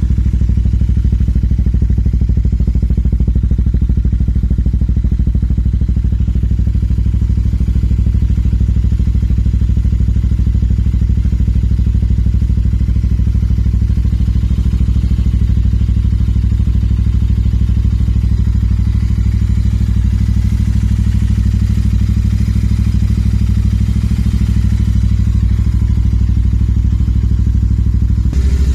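Royal Enfield Continental GT 650's 648 cc parallel-twin engine idling steadily through an aftermarket Trident exhaust, a deep even exhaust note; the note changes slightly right at the end.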